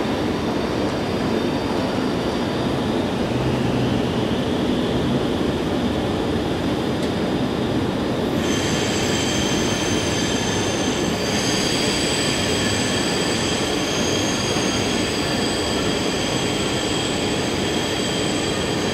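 Regional train rolling into a station: a steady rumble of wheels on the rails, and about eight seconds in a high, steady metallic squeal of several tones sets in as it slows.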